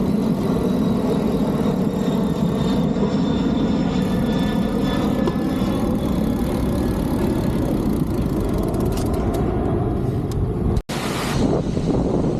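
Steady wind and road noise rushing over the camera microphone while riding in traffic. The sound cuts out for an instant near the end.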